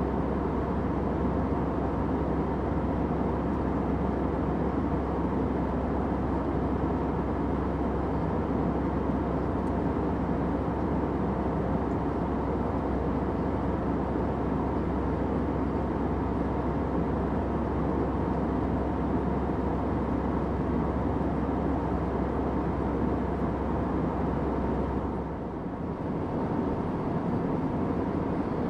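Airplane cabin noise: a steady, even drone with a deep rumble. About 25 seconds in it dips briefly, and after that the deepest part of the rumble is thinner.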